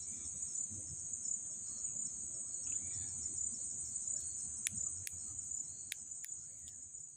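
Insects trilling steadily at a high pitch, over a low background rumble. In the second half there are about half a dozen sharp clicks, and the whole sound fades out near the end.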